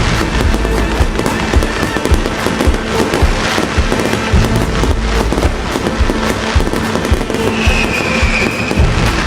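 Firework display: a dense, continuous barrage of bangs and crackling. A short, slightly falling whistle sounds near the end.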